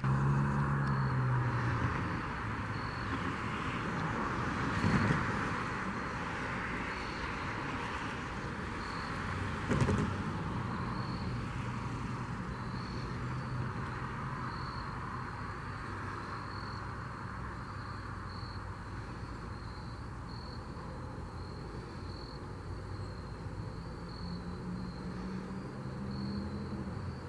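Train rolling past with a steady rush of wheel and rail noise, a low diesel engine drone at the start and again near the end, and two louder knocks about 5 and 10 seconds in.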